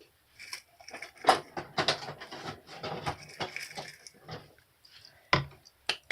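A rapid run of clicks and taps from small hard objects being handled, followed later by two sharper single knocks.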